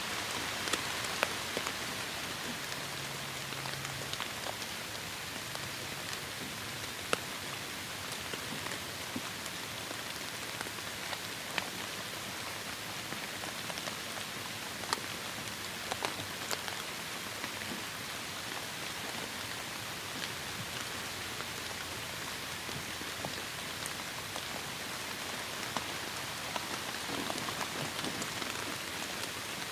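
Steady heavy rain falling, an even hiss with scattered sharper drops striking close by.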